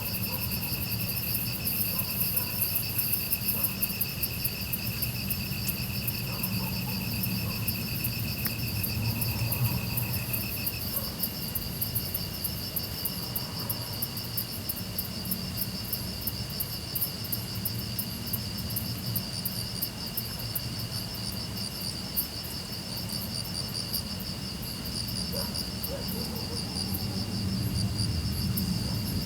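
A chorus of grass insects such as crickets, several trilling steadily at once at different pitches, with rapid high chirps pulsing above them. About a third of the way through, one of the trills shifts slightly higher.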